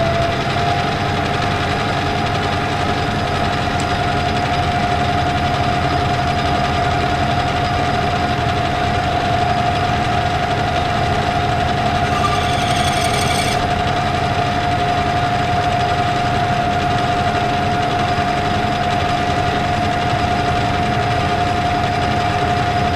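Metal lathe running at a steady speed with a constant whine, during a light clean-up boring pass inside a bushing. A brief hiss comes about twelve seconds in and lasts a second or so.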